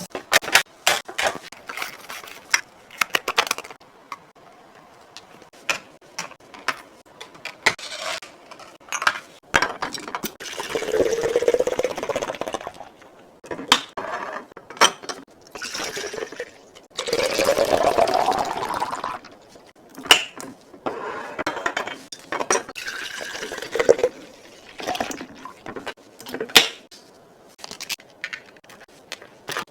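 Liquid being poured into a container twice, the pitch rising as it fills, among repeated clinks and knocks of containers and items being handled and set down.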